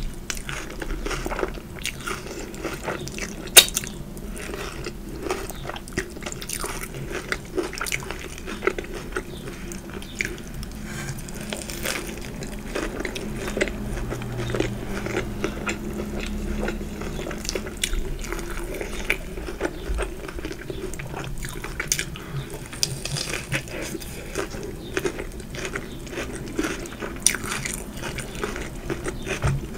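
Close-miked eating: a person biting and chewing food, with many small crisp clicks from the mouth and one sharper crunch about three and a half seconds in.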